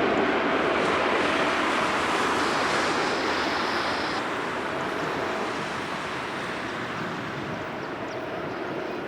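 Jet airliner's engine noise as it passes, a broad rushing roar that slowly fades.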